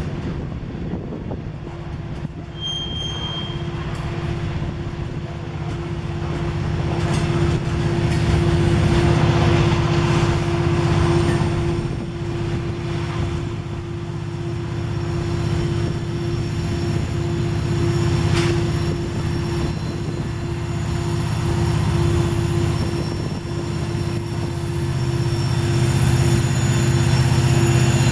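Loaded freight grain train working up a mountain grade with diesel locomotives: a steady low rumble with one steady humming tone over it. A brief high squeal comes about three seconds in, and the sound swells twice as the train moves by.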